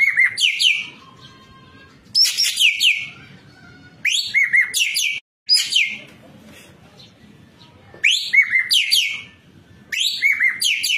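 Ekek keling singing in loud, busy phrases about every two seconds. Each phrase is a quick run of sharp, falling whistled notes and short trills, typical of a bird singing at full voice.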